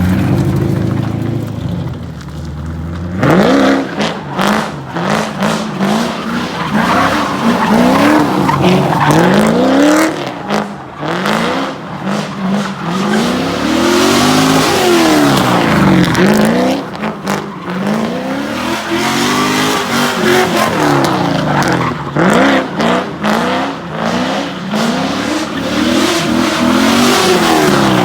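LS1 V8 engine in a Nissan 240SX S14, very loud, idling steadily for about three seconds and then revved up and down again and again.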